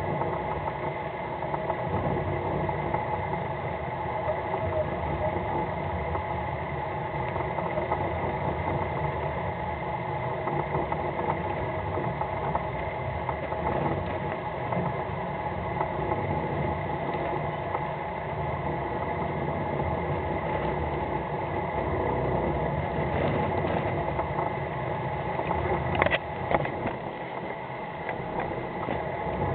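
Fishing boat's engine running steadily at idle or low speed, with a couple of sharp knocks near the end.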